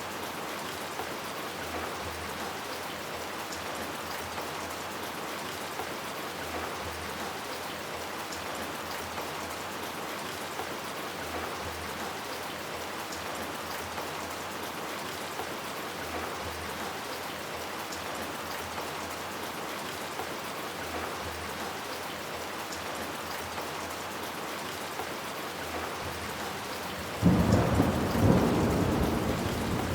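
Steady rain falling, an even hiss. About three seconds before the end a sudden loud clap of thunder breaks in and rumbles on.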